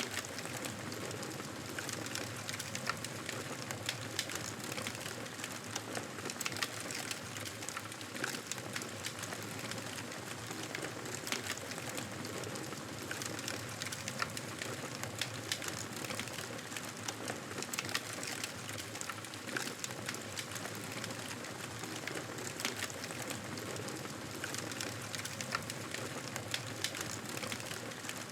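Wood fire crackling in a fireplace: a steady hiss with frequent small sharp pops and snaps.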